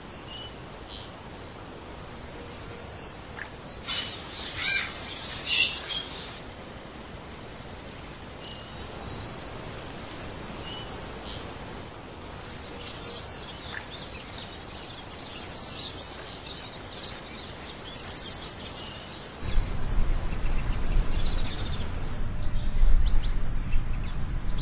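A bird repeats a short, very high, rapid trill about every two to three seconds, with brief whistled notes between. A low rumble comes in near the end.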